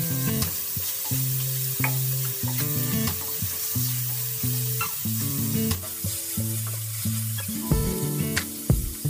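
Chopped tomatoes, chilies, garlic and minced chicken sizzling in oil in a non-stick wok, stirred with a wooden spatula that scrapes and knocks against the pan now and then. Background music with a low melody plays throughout.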